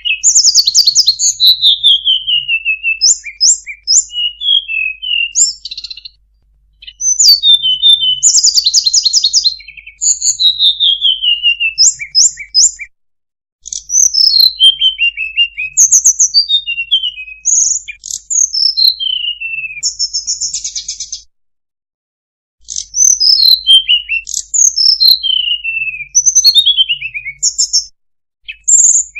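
Songbird song used as a lure call for the sulingan (tledekan): high, thin whistled phrases that slide down in pitch, mixed with fast ticking trills. The song comes in runs broken by brief silences, about 6, 13, 21 and 28 seconds in.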